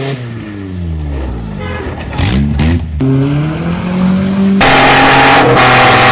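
Car engine revving in quick cuts: its pitch drops as the revs fall, then climbs again, and from about four and a half seconds in it holds a loud, steady high-revving note with a lot of hiss.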